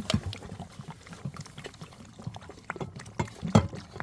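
Water or another liquid being poured and splashed, with irregular knocks and clatter, the loudest a moment after the start and about three and a half seconds in.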